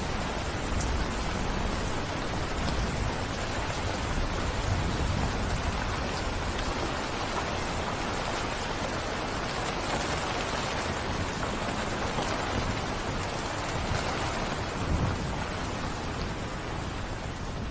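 Heavy rain falling steadily, a dense even hiss with a low rumble underneath, easing off slightly near the end.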